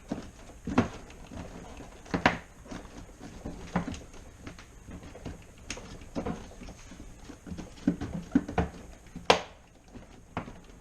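Irregular knocks, taps and clicks of parts being handled and fitted back into a refrigerator's main cabinet, with a few sharper knocks among them.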